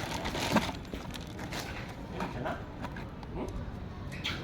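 Scattered light taps and clicks, irregular, over faint background noise.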